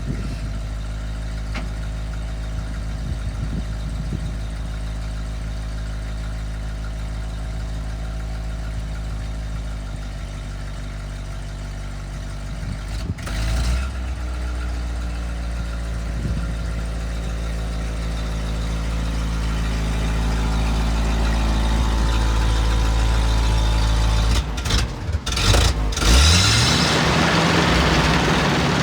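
Engine of a 1977 Ford LN600 grain truck running steadily, with a brief rise in engine speed near the end.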